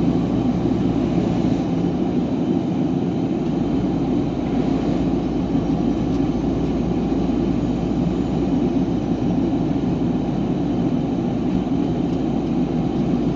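Steady hum of a truck's engine and road noise, heard from inside the cab while driving slowly.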